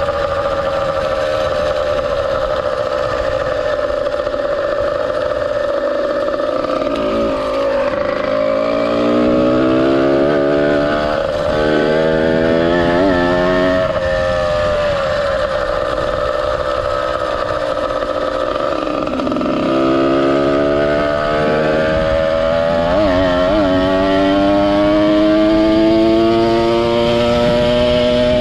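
Ported 100cc two-stroke motorized bicycle engine breathing through a YZ85 expansion pipe, under way: the engine note climbs, drops back about halfway through, then climbs again.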